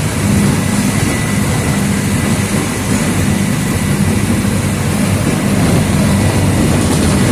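Mercedes-Benz OF 1722M city bus's diesel engine running steadily, a low hum over constant road and body noise.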